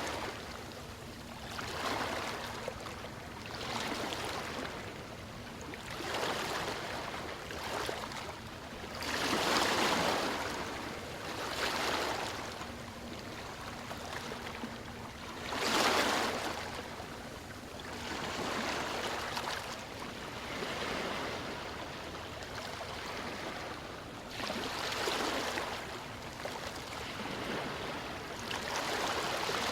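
Ocean waves washing in and drawing back, each surge of surf rising and falling every two to three seconds, with two louder breakers about a third and halfway through.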